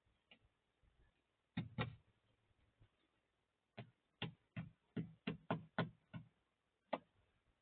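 A bird pecking at food, a series of sharp taps: two close together, then a quick run of about eight at roughly three a second, and a last one near the end.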